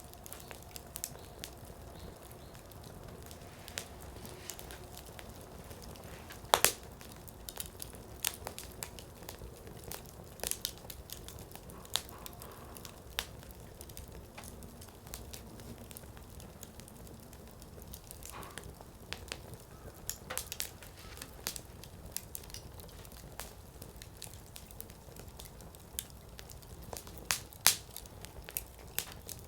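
Firewood burning in a Coleman Fire Disk, crackling with scattered sharp pops as the wood bursts. The two loudest pops come about a quarter of the way in and near the end.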